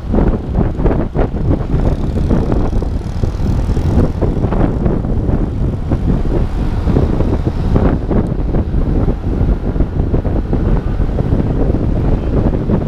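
Wind rumbling on the microphone of a moving motorbike, with the motorbike's engine and road noise running underneath.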